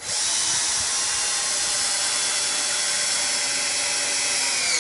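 Cordless drill-driver running steadily under load while driving a screw, its whine sliding down in pitch near the end as it slows: the battery is going flat.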